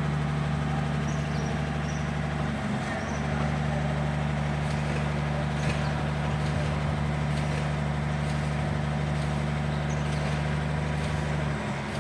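A motor running steadily with a low hum, briefly dipping twice, with faint light ticks over it.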